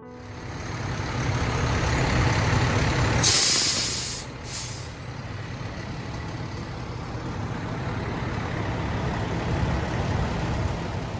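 A heavy vehicle's engine running with a steady low rumble, with two short bursts of loud air hiss a little over three and about four and a half seconds in.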